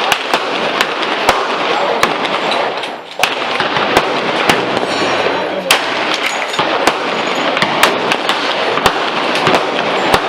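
Gunfire at a shooting range: many sharp shots at irregular intervals, some louder than others, over a steady rushing noise.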